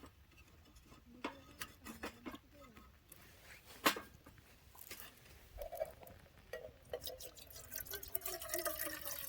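A few light clicks and one sharper knock, then liquid being poured into a container over the last few seconds.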